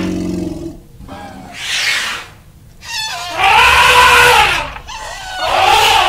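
Elephant trumpeting: a short breathy blast about two seconds in, then two loud calls that rise and fall in pitch, the first about three and a half seconds in and the second near the end.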